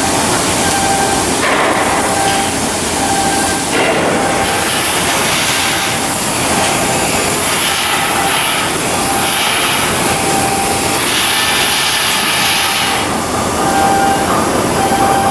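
Loud steady industrial work noise from shipbuilding, with a faint short beep repeating about once a second. The noise changes character abruptly a few times.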